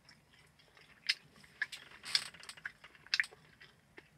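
A person chewing a mouthful of food close to the microphone: a few irregular, short, moist smacks and crunches.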